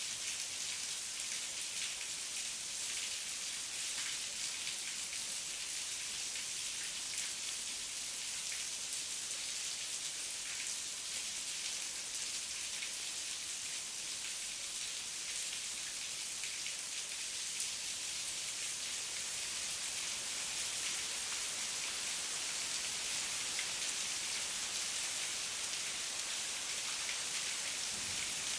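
Heavy rain falling steadily: a dense, even hiss of drops with fine ticks of individual drops hitting.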